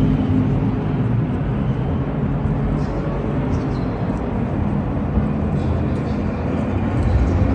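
Race car engines running, a steady low rumble, with a pitched engine note that fades in the first moments.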